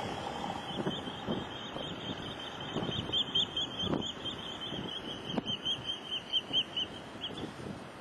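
A small bird chirping: a quick run of short high notes, about five a second, over low wind rumble on the microphone.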